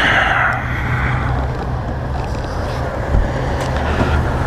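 Motorcycle engine running steadily while riding, with wind noise on the microphone and a rushing hiss that fades over the first second or so.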